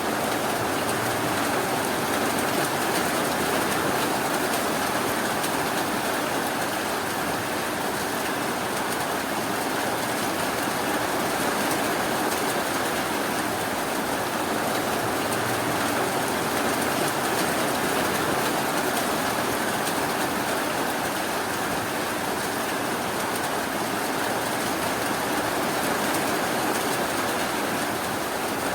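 Steady rainfall, an even rushing hiss with no breaks or sudden sounds.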